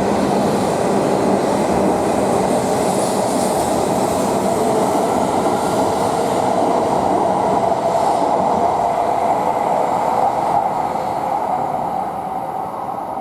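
Tohoku Shinkansen train running along the platform: a loud, steady rumble and rush of wheels and air that begins to fade near the end.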